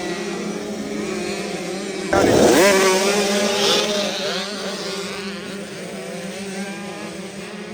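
Several off-road dirt bike engines revving hard as the pack rides off from a race start. About two seconds in, one bike gets suddenly louder close by, its pitch sweeping up and down, and then the engines fade away.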